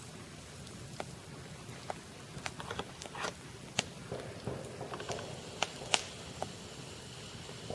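Campfire crackling: irregular sharp pops and snaps over a low steady hiss, the loudest pops about four and six seconds in.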